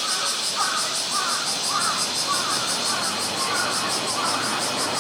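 Cicadas droning steadily in summer heat, a dense high-pitched buzz with a fast pulsing beat, with short chirps repeating about twice a second over it.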